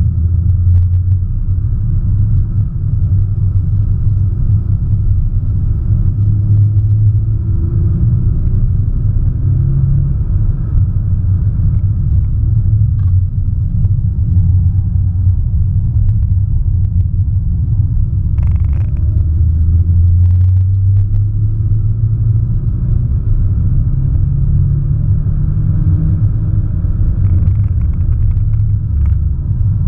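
Audi S1 Sportback's turbocharged 2.0-litre four-cylinder engine heard from inside the cabin while the car is driven on track, with a loud low drone whose revs climb and drop several times. Road rumble runs under it, and there are a few brief knocks past the middle.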